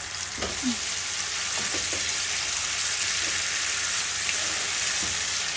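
Chopped garlic and chili sauce sizzling steadily in hot oil in a nonstick frying pan, stirred with a metal spoon.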